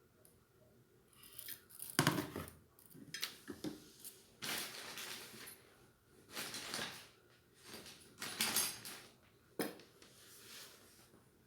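Ceiling fan parts being handled and fitted together by hand: an irregular series of scrapes, rustles and clicks, with a sharp knock about two seconds in.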